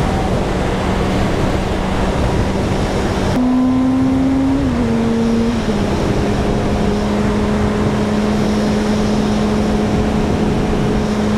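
Suzuki GSR 600's inline-four engine running at steady road speed under a rush of wind noise. About three seconds in, the engine note jumps higher, then steps down twice and holds steady.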